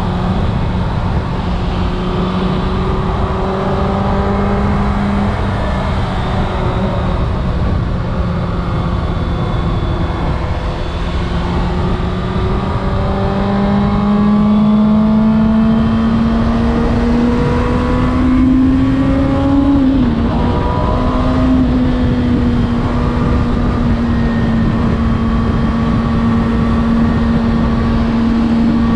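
Kawasaki Ninja ZX-6R inline-four engine running steadily while riding. Its pitch climbs slowly, drops briefly about twenty seconds in, then holds steady. A constant rush of wind noise runs underneath.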